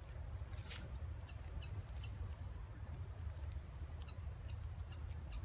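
A ferrocerium rod struck hard with a blade to throw sparks onto tinder: one short, sharp scrape about a second in, followed by a few faint scattered ticks, over a low steady rumble.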